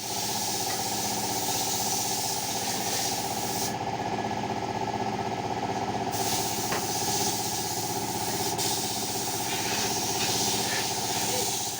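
Suzuki 25 outboard motor running steadily.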